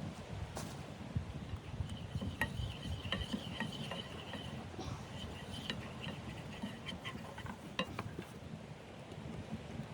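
Light metallic clinks and taps, a dozen or so with a faint ring after them, over a low steady rumble.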